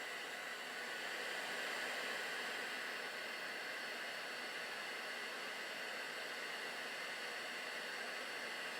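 Hot-air plastic welder blowing a steady hiss of hot air while polypropylene is welded with filler rod.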